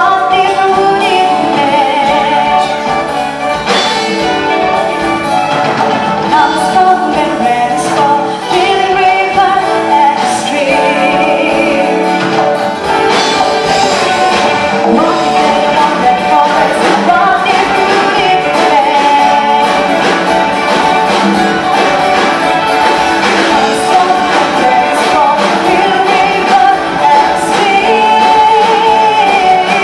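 A song sung with instrumental accompaniment, the voices carrying a continuous melody over the instruments.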